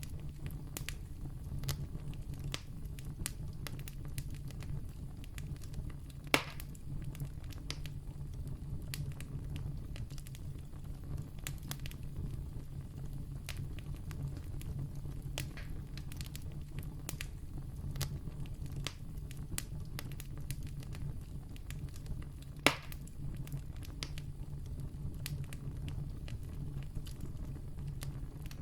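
Wood campfire burning and crackling, with a steady low rumble of the flames, frequent small snaps and two sharp pops, about six seconds in and near twenty-three seconds.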